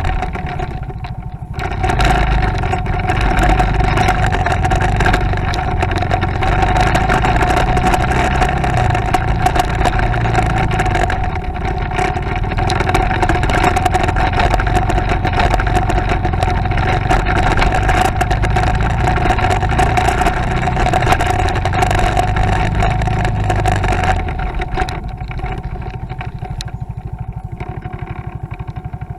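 Motorcycle engine running steadily while riding, with a constant whine. It picks up about two seconds in and eases off to a lower, quieter running near the end.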